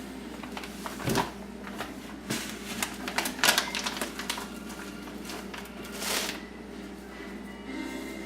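Granular citric acid being scooped from a plastic bag and poured into a measuring cup: scattered bursts of rustling and grainy scraping.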